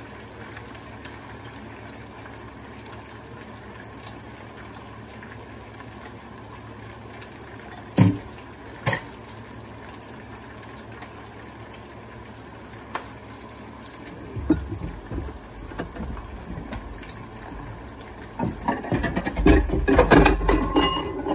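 Hot oil sizzling steadily as chicken drumsticks and egg-battered cauliflower fry in two pans, with two sharp metal clicks of tongs about eight and nine seconds in. Near the end, loud clattering and knocking as she tries to fetch a plate.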